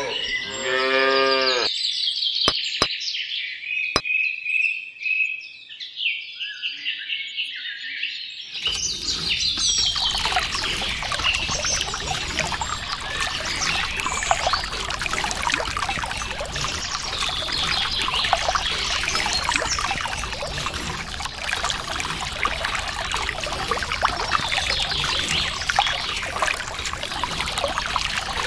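A cow's moo ends in the first couple of seconds, then birds chirp. About nine seconds in, a steady rush of pouring water starts and carries on under the birdsong.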